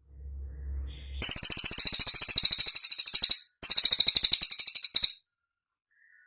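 Cililin bird singing two long, very rapid high-pitched trills, about two seconds and a second and a half long with a short break between them, after a brief low rumble.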